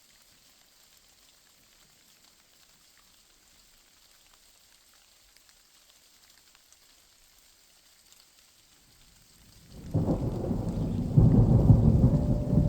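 Faint steady rain with scattered drop ticks, then about ten seconds in a loud, low rumble of thunder swells up and rolls on to the end.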